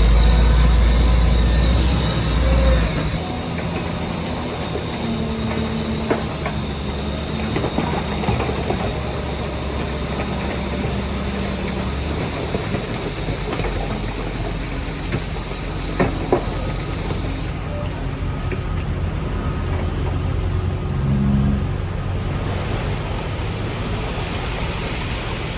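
Heavy diesel earthmoving machinery running steadily, loudest and deepest for the first three seconds, with two sharp metallic clanks about sixteen seconds in.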